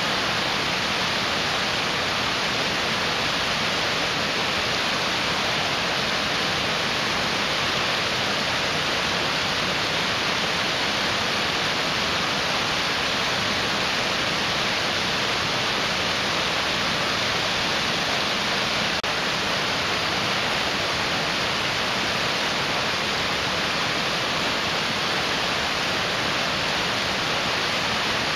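Mountain stream rushing over rocks: a steady, unbroken roar of water.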